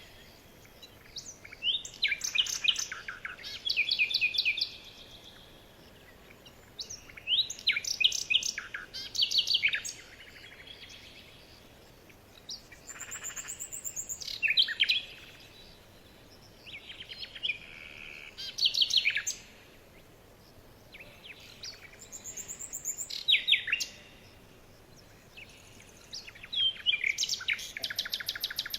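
Small birds chirping and trilling in quick bouts of rapid, high notes, one burst every few seconds with short quiet gaps between.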